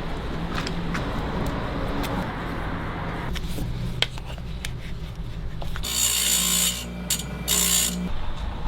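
Scattered clicks of a hand tool at work, then two hissing scraping strokes, the first about six seconds in and the second shorter a moment later, over a steady low background hum.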